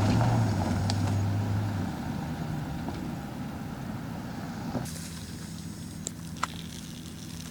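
Rally vehicle's engine running hard as it comes through, loudest in the first couple of seconds, then easing into a steadier, quieter engine drone that fades away.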